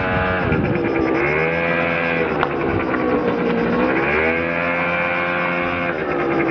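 Motor scooter engine running under way, its pitch dipping and climbing back up twice as the throttle is eased off and opened again.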